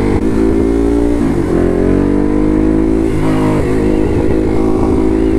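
Ducati Hypermotard SP's L-twin engine accelerating on the highway. Its pitch climbs, with brief breaks and drops about a second in and about three seconds in, where it shifts up a gear on the quickshifter.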